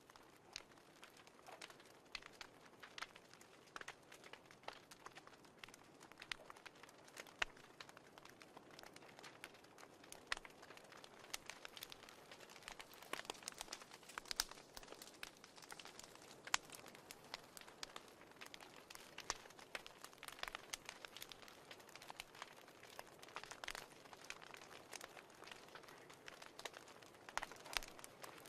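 Faint wood fire crackling, with irregular sharp pops scattered throughout.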